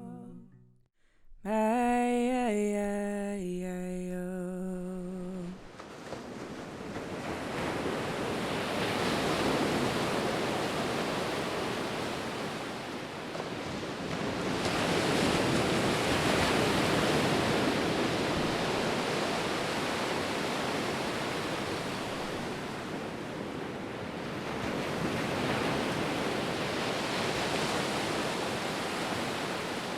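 A voice hums a few held notes for a few seconds. Then ocean surf on a beach takes over, waves washing in and swelling and fading every several seconds.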